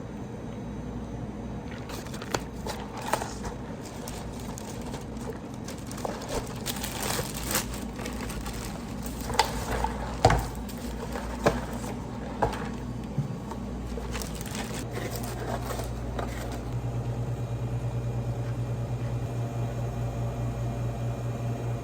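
Scattered clicks, knocks and scraping of things being handled over a steady low hum, with a steady low buzz setting in near the end.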